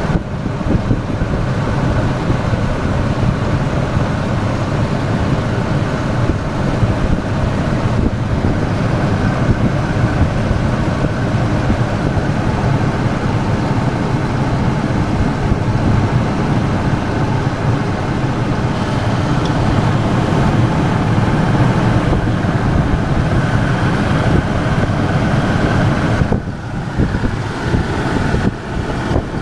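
1997 Ford F-150's engine idling steadily under the hood with the air conditioning switched on, with two brief drops in level near the end.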